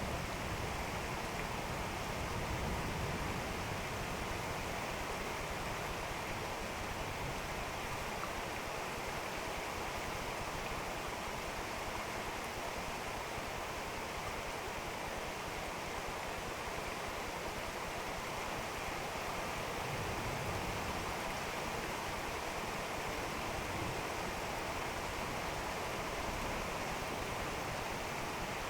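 Steady rain falling in a thunderstorm, an even hiss. A low rumble of thunder fades out at the start, and a soft low rumble swells briefly about twenty seconds in.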